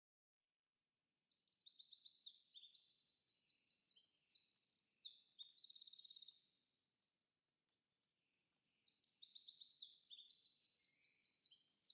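A small songbird singing two long, high-pitched songs of rapid trills and repeated notes, the second song a near copy of the first after a short pause.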